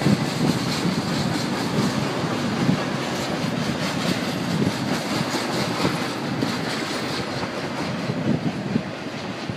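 Double-stack container cars of a long BNSF intermodal freight train rolling past, a steady rumble of steel wheels on the rails with light clicking.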